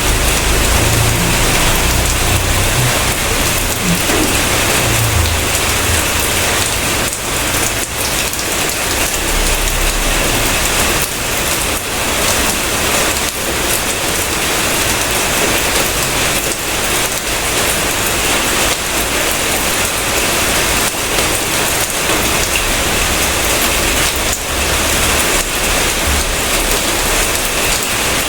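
Heavy rain falling steadily, with a low rumble during the first few seconds.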